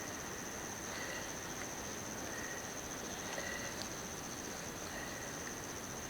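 Night insects, crickets or similar, trilling steadily at a high pitch, with shorter chirps recurring about once a second over an even background hiss.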